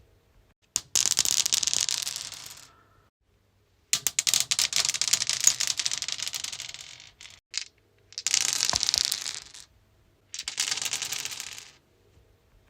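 Dice rolled on a stone surface, four throws in turn, each a quick clatter of clicks that dies away over a second or two.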